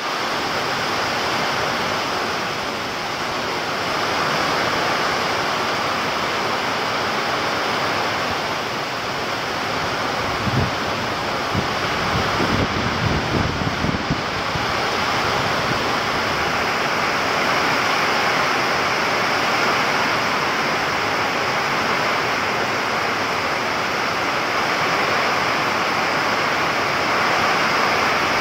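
Heavy rain pouring steadily in strong wind. For a few seconds around the middle, gusts buffet the microphone with low rumbling.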